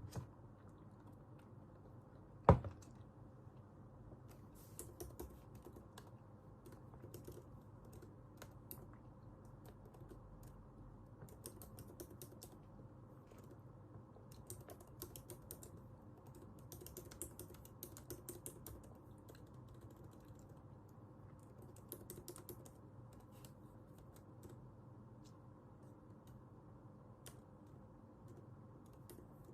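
Typing on a computer keyboard in short bursts of key clicks with pauses between, over a steady low room hum. One sharp knock, much louder than the keys, comes about two and a half seconds in.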